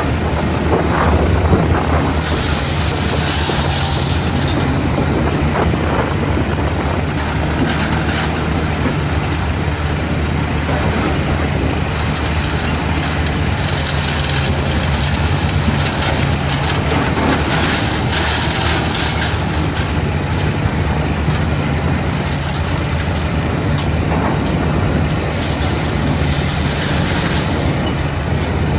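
Diesel engine of a JCB construction machine running steadily under load, with a hiss rising over it a few times.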